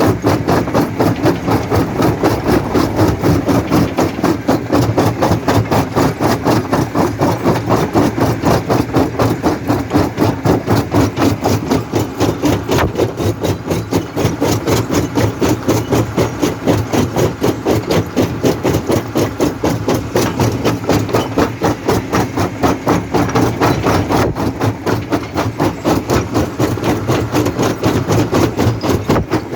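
Jaw crusher running and crushing stone: a rapid, even knocking over a steady low machine hum.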